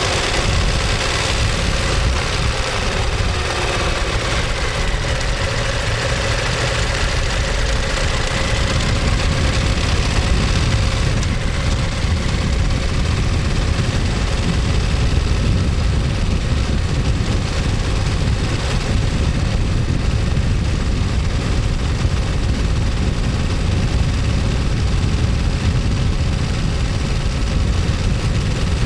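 Ducati Monster 1200S's L-twin engine and exhaust running steadily, an even low rumble.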